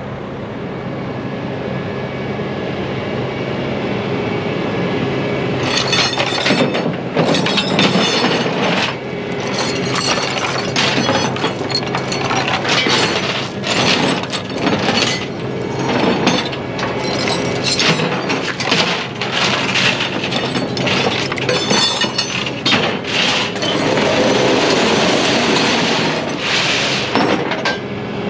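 Heavy truck engine running steadily; about six seconds in, a long, irregular run of loud metal clanks and rattles starts over it, typical of steel equipment and chains being worked while a vehicle is loaded for hauling.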